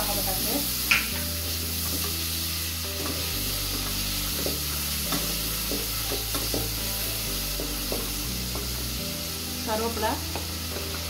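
Onions, tomatoes and spices sizzling in hot oil in an open pressure cooker, with a wooden spatula stirring and scraping the pot in short clicks and scrapes.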